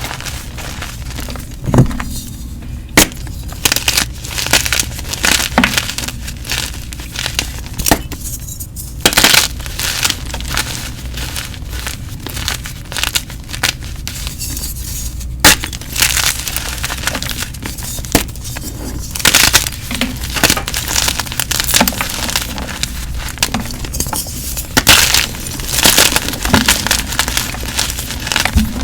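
Blocks of gym chalk being crushed and crumbled, a run of crisp crunches and crackles broken by sharp snaps at irregular intervals.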